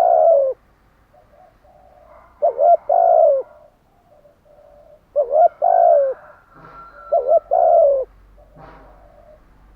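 Spotted dove cooing: four loud phrases, each two short notes then a longer falling note, with fainter cooing from other doves between them and a few short higher bird calls.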